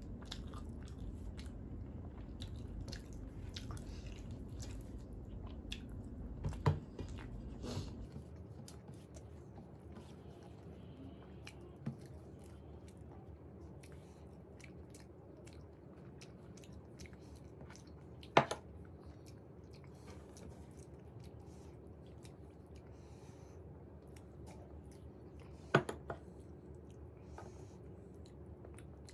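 Close-miked chewing of a mouthful of rice and fish curry eaten by hand, with soft wet mixing sounds. Several sharp clicks come from fingers against the stainless steel plate; the loudest are about two-thirds of the way through and near the end.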